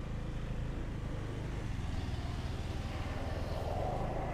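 Motorcycle engine running steadily, growing a little louder near the end.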